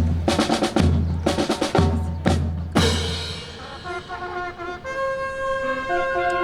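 Military band playing honour-salute music: heavy bass drum beats with snare drum strokes, about five beats in the first three seconds, then held brass chords from about four seconds in.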